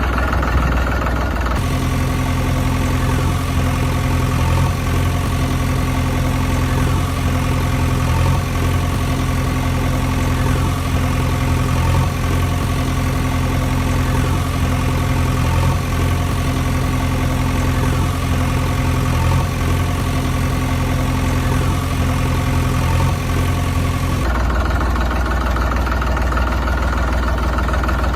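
Engine idling steadily. The engine sound changes abruptly about a second and a half in and again near the end.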